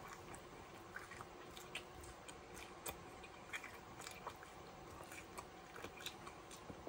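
A man chewing food with his mouth closed, close to the microphone: faint, irregular wet smacks and small clicks of the mouth and jaw.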